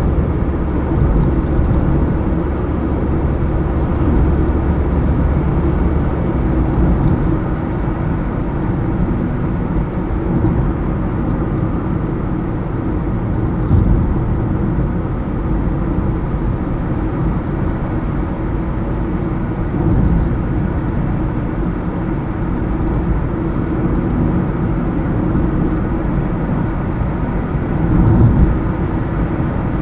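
A car driving along a highway: steady engine and tyre noise with a deep rumble. The noise swells briefly a few times, about 14, 20 and 28 seconds in.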